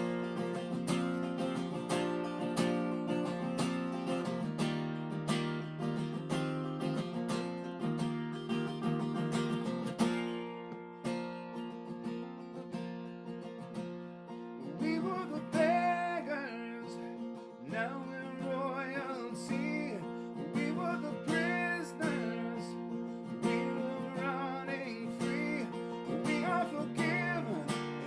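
Acoustic guitar strummed in a worship-song accompaniment, steady chords for about the first ten seconds, then a softer, sparser passage.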